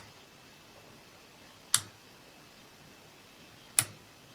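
Round waterproof rocker switch with LED indicator being flipped, giving three sharp clicks about two seconds apart as it is toggled on and off.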